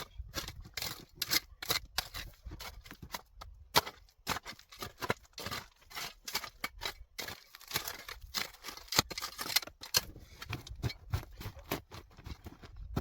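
Campfire crackling and popping: irregular sharp snaps, some louder, over a low rumble.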